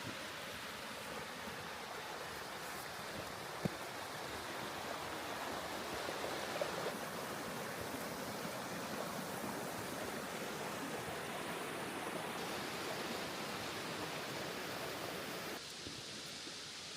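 Mountain river rushing steadily, with one sharp click about four seconds in. Near the end the rush abruptly turns quieter and duller.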